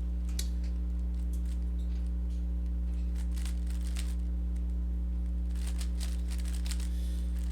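Rubik's cube being turned: faint quick plastic clicks of its layers, in two flurries, about three seconds in and again near the end, over a steady low electrical hum.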